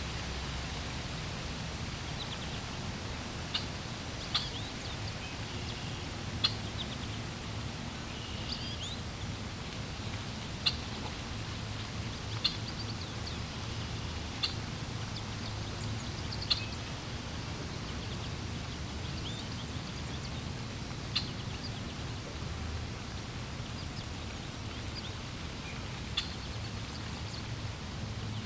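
Steady flowing water with small birds chirping now and then: short, sharp high calls every couple of seconds.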